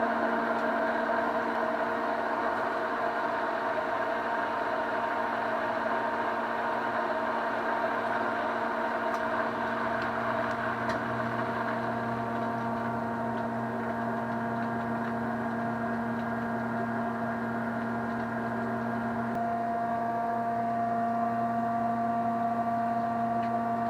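Steady mechanical hum with several held tones from the descaling setup running: a small pump circulating vinegar through a Bosch tankless water heater that has just been switched on and is firing. A lower part of the hum swells about ten seconds in, and a new higher tone joins near twenty seconds.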